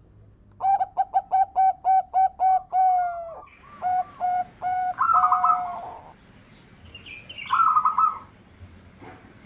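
Zebra dove (perkutut) cooing: a quick run of about ten short, even notes, then a few longer notes, and rolling trilled phrases about five seconds in and again near the end.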